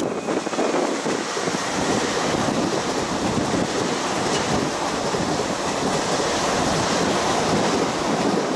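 Tokyu 2020 series electric multiple-unit train passing close by at speed: a steady rushing of wheels on rail and air.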